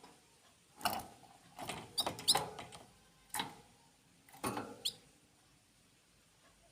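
Small birds scrabbling and fluttering in a series of short scratchy bursts, with a few brief high chirps among them.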